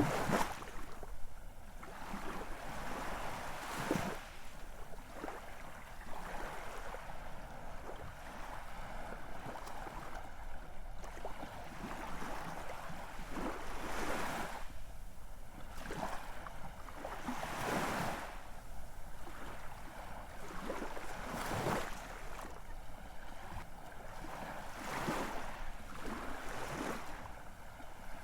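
Ocean surf: waves washing and breaking in a steady hiss that swells and fades every few seconds, with brief splashes.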